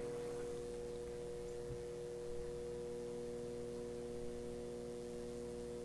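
Microwave oven running with its fan on: a steady, even hum. The oven is not heating, because a magnet on its magnetron is broken in half.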